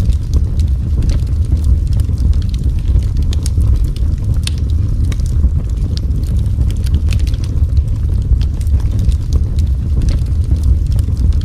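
Wood fire in a fireplace burning steadily, with a low rumble of flame and frequent irregular crackles and pops.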